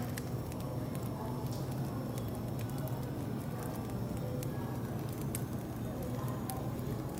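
Wood fire crackling, with scattered sharp pops over a steady low hum of cafe background.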